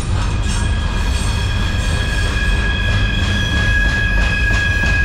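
Freight cars of a CSX train rolling past with a low rumble of steel wheels on the rails. A steady high-pitched squeal of several tones comes in within the first second and grows stronger.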